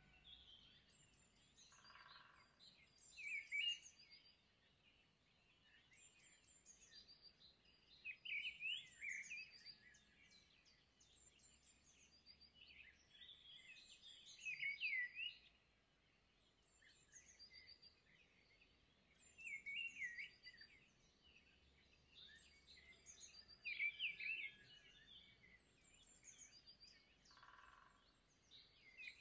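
Quiet birdsong: bursts of chirping and twittering notes about every five seconds.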